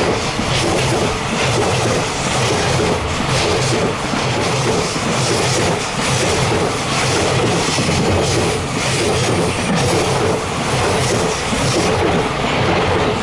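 Freight train's wagons rolling past close by, their wheels clattering over the rail joints again and again over a steady loud rumble.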